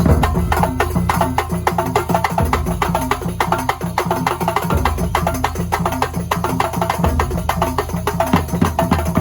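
Kuntulan ensemble music from Banyuwangi: fast, dense percussion strokes over a steady deep drum, with short repeated pitched notes running through it.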